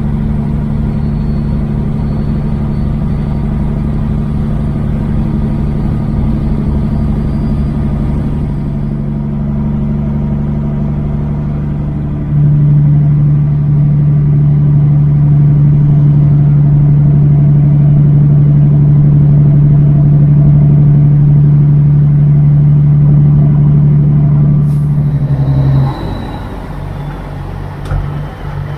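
Semi truck's Caterpillar diesel engine running steadily at a constant pitch. It gets noticeably louder about twelve seconds in, holds there, then drops off sharply near the end.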